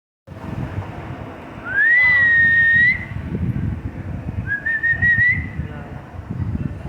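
Two long whistles: the first rises and is held steady for about a second and is the loudest sound, the second, about two and a half seconds later, is shorter and wavering. A steady low rumble runs underneath.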